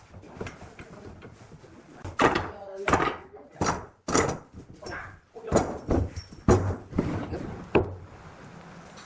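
A run of about a dozen irregular knocks and thuds from wood being handled or struck, coming in quick succession from about two seconds in to near the end.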